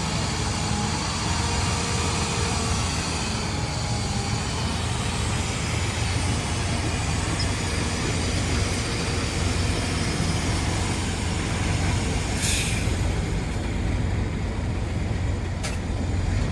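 Bulldozer's diesel engine running steadily with a low hum, and faint high squealing tones in the first few seconds. A brief hiss about twelve seconds in.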